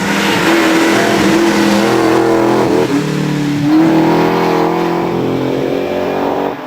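V8 race car engine at full throttle on a hillclimb run, with a brief break in the note about three seconds in, like a gearshift, before it pulls again.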